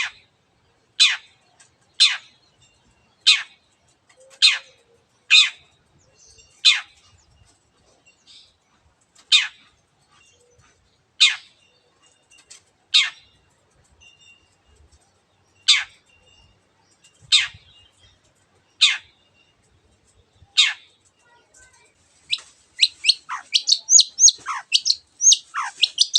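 Long-tailed shrike (cendet) giving its 'teot' call: single sharp, downward-sweeping notes, one every one to two seconds, breaking into a fast run of rapid calls near the end.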